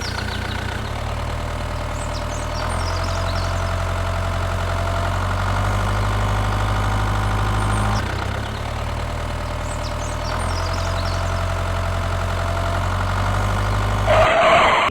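Engine idling steadily, a little louder from about two and a half seconds in; the same sound starts over about eight seconds in.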